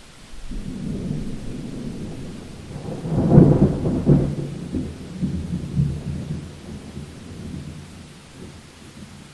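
Thunder rumbling in a rainstorm, with a louder clap about three seconds in that rolls on and slowly dies away, over a faint hiss of rain.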